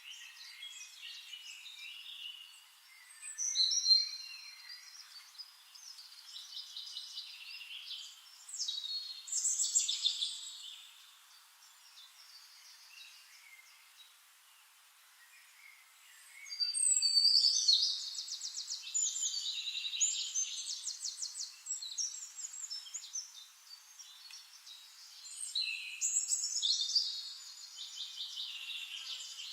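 Songbirds singing in repeated bouts of chirps and rapid trills, with a quieter lull about halfway through.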